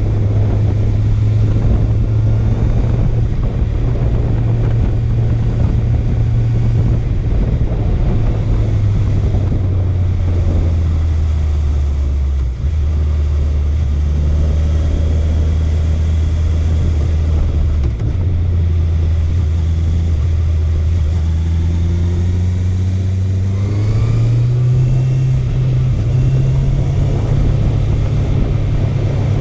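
Honda CB650F inline-four motorcycle engine running on the road. Its drone drops in pitch as the bike slows about a third of the way in, holds lower with two brief dips, then rises as the rider accelerates near the end.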